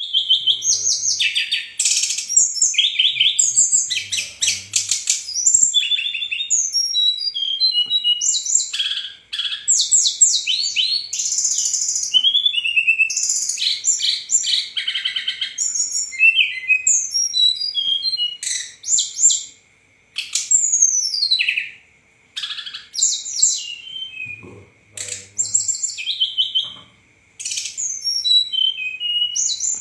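Brown-chested jungle flycatcher (SRDC) singing a fast, varied song of chirps, trills and falling whistles, almost unbroken at first and then in separate phrases with short pauses.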